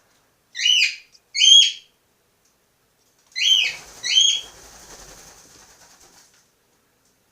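Cockatiels calling: two short chirping calls, then two more about two seconds later, followed by a couple of seconds of soft rustling that fades out.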